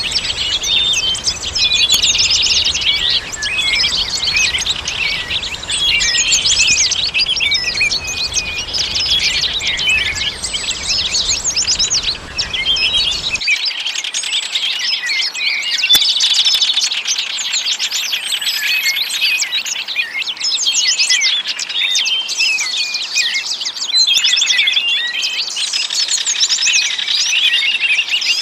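A dense chorus of many small songbirds chirping and trilling over one another without pause. A faint low hiss underneath cuts off abruptly about halfway through.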